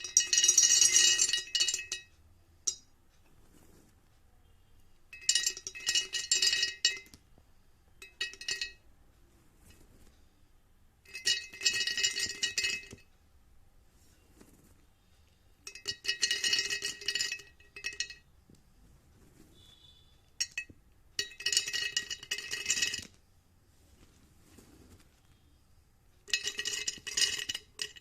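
Repeated bursts of glassy clinking and ringing, each one to two seconds long and coming about every five seconds, with the same ringing tones each time.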